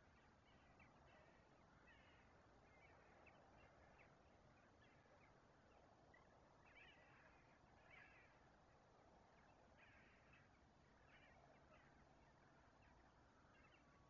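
Very faint, distant bird calls: short calls repeated irregularly, over a steady low background hiss.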